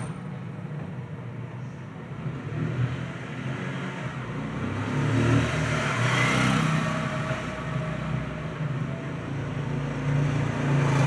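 Street traffic: a motor vehicle's engine running, with a rushing noise that builds to a peak about halfway through and then fades, as of a vehicle passing.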